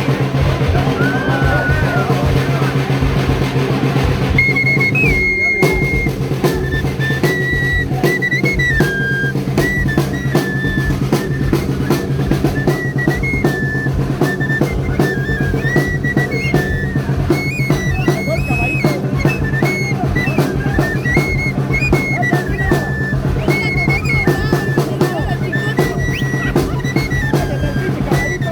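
Traditional torito dance music: a high pipe plays a short, repeating melody over a fast, continuous drum beat. The pipe comes in about four seconds in.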